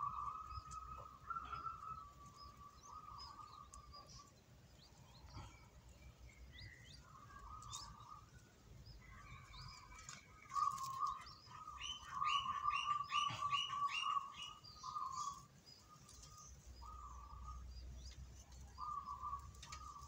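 Small birds calling: an on-and-off thin whistle with scattered short chirps, and a quick run of about eight chirps a little past the middle.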